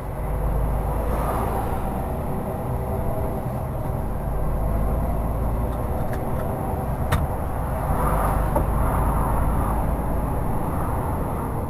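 Steady low engine and road rumble of an HGV driving along, heard inside the cab, with a single sharp click about seven seconds in.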